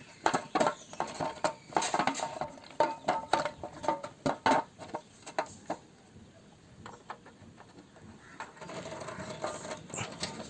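Irregular clicks and clinks of a float valve, its washer and nut being handled and screwed into a water tray, thickest in the first half and thinning out after.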